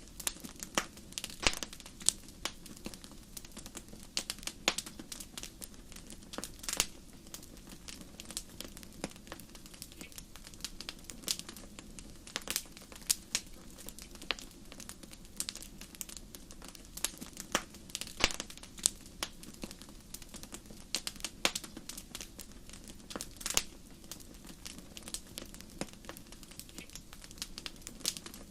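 Wood fire burning in a fireplace: a steady low rush of flames with irregular sharp crackles and pops, several a second.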